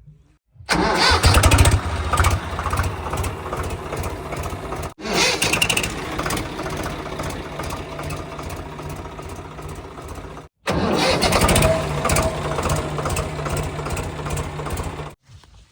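Heavy diesel engine of earthmoving or haulage machinery running, in three stretches cut off abruptly from one another; each stretch opens loud, then settles to a steady run.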